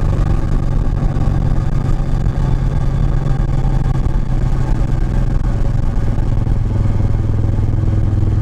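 Kawasaki Vulcan 1700 Vaquero's V-twin running steadily through a DanMoto Highwayman 2-into-1 full exhaust, a deep, even exhaust note with no revving.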